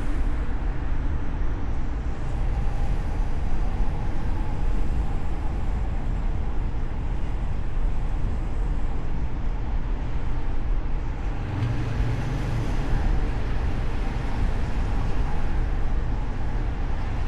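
Steady rumble of a car driving through city traffic, heard through a hood-mounted camera's microphone, with road and wind noise and a brief low swell about twelve seconds in.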